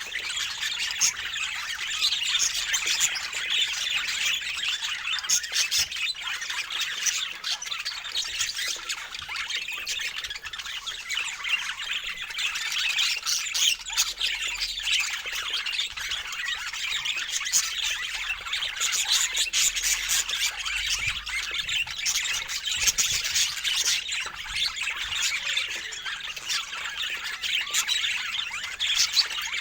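A flock of birds chattering and squawking together, a dense, unbroken mass of short, high calls overlapping one another.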